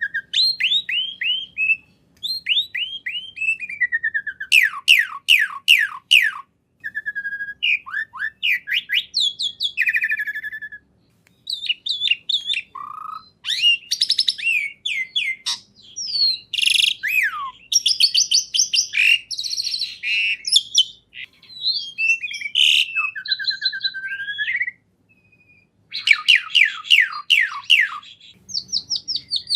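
Caged songbird singing loud, varied phrases of rapid falling whistles and quick trills, repeated with short pauses between them.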